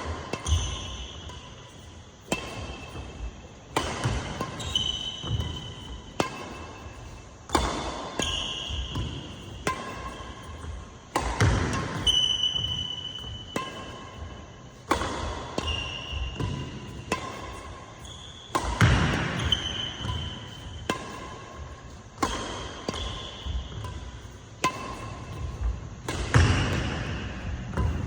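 Badminton rally: sharp cracks of rackets striking the shuttlecock every second or two, with short squeaks of court shoes and footfalls in between.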